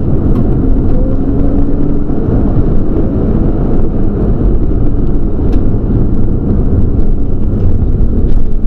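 Nissan Skyline GTS-t's RB20 turbocharged straight-six running steadily as the car is driven at speed, heard loud from inside the cabin together with road noise.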